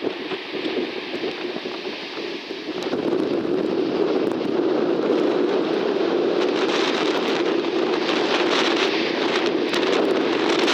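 Jet engine noise of a four-engined Airbus A380, a steady rushing rumble that grows louder about three seconds in and then holds, with wind buffeting the microphone.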